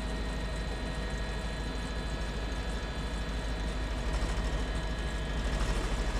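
Steady drone of a news helicopter's rotor and turbine heard from inside the cabin: a fast, even low thudding under a few thin, steady whining tones.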